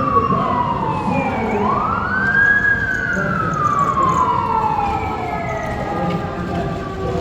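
Emergency vehicle siren wailing: a falling tone that sweeps quickly back up about a second and a half in, then falls slowly again, over a steady low rumble of street noise.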